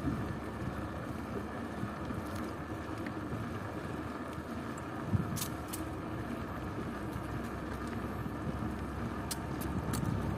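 Steady rumble of wind on the microphone and tyres rolling while riding a bicycle, with a few sharp clicks about halfway through and near the end.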